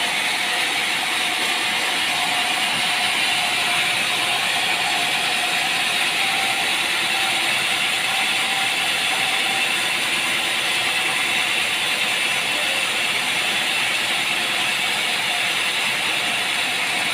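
Sawmill machinery running steadily: a constant hiss with a faint, unchanging whine.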